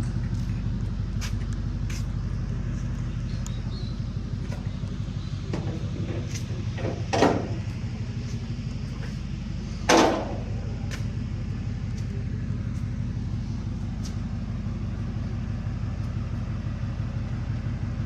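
A vehicle engine idling steadily with a low, even rumble, with a few faint clicks and two short, loud bursts of noise about seven and ten seconds in.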